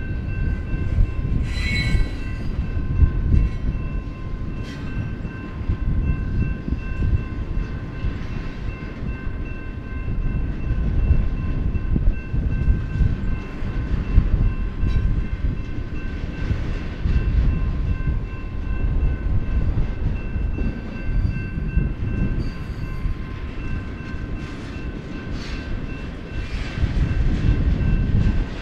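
BNSF double-stack intermodal train's container well cars rolling past: a steady rumble of steel wheels on rail, with a few sharp clanks. Over it the grade crossing's warning bell rings with a steady high tone.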